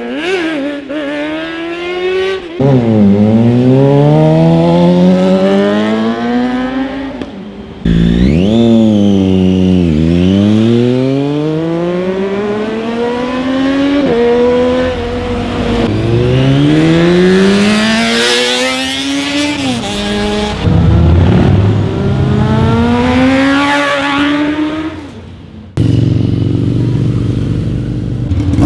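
Sportbike engines with loud exhausts accelerating hard through the gears, in several takes. The pitch climbs steeply through each gear and then drops sharply at each shift or as a bike passes.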